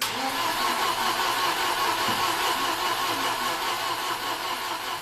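Freshly rebuilt Volvo B234F 2.3-litre 16-valve inline-four engine running steadily during its first start-up; the sound begins and ends abruptly.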